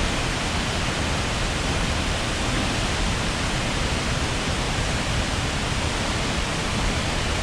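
Tall waterfall in heavy flow, its water pounding down in a steady, loud, even roar.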